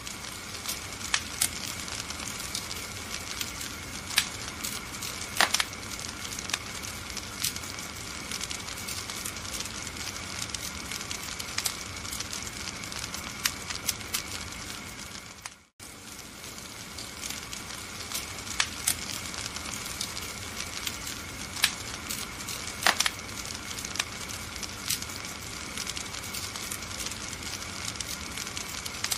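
Wood fire in a fireplace crackling, with frequent sharp pops over a steady hiss. It cuts out for a moment about halfway through, then starts again.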